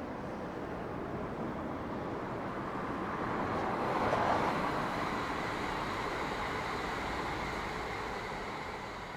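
Yamagata Shinkansen train running: a steady rushing noise of wheels and air that swells about four seconds in and then slowly eases off.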